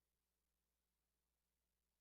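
Near silence: only a very faint steady hiss and low hum of the recording chain.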